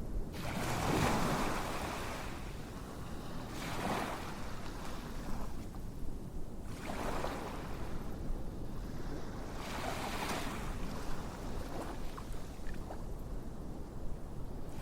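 Ocean waves washing ashore, a surge of surf about every three seconds over a steady low rumble.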